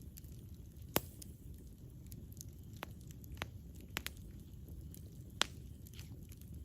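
Campfire burning: a low, steady rumble of flames with scattered sharp crackles and pops of burning wood, the loudest pop about a second in and another after about five seconds.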